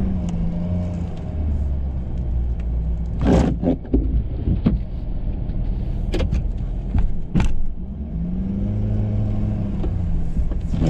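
Ford F-350 plow truck engine running under load while plowing snow, its pitch rising and falling twice as it pushes. Several sharp clunks come in the middle stretch.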